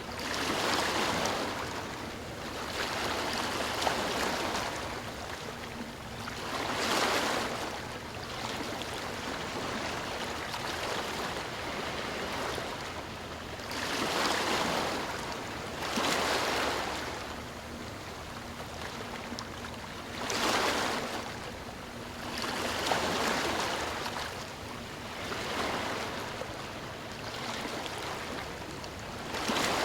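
Ocean surf: waves breaking and washing in, the sound swelling and fading every few seconds with about eight louder surges.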